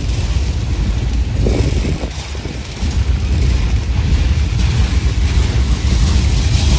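Freight cars of a CSX manifest train rolling past close by: a loud, steady low rumble of steel wheels on the rails.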